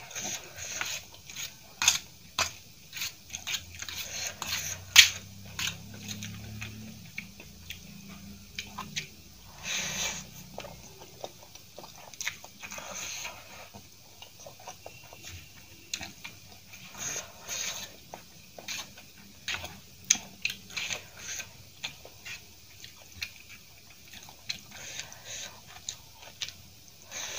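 Close-miked chewing of soft masala Maggi noodles: irregular wet smacks and clicks of the mouth. Now and then a steel fork scrapes across a steel plate.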